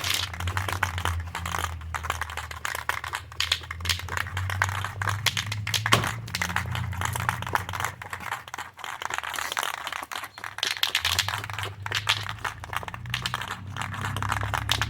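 Irregular crinkling and clicking of objects being handled at close range, over a low steady hum.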